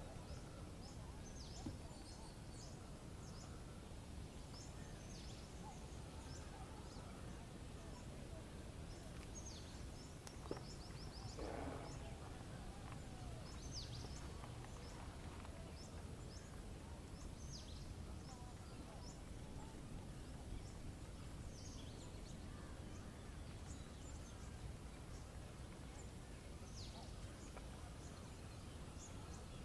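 Faint nature ambience: birds giving many short, high chirps over a steady low rumble, with one louder, lower sound about eleven seconds in.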